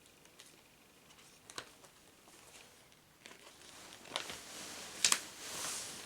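Paper rustling and small clicks from handling sticker sheets, growing louder in the last three seconds with a couple of sharper clicks and a rustle near the end.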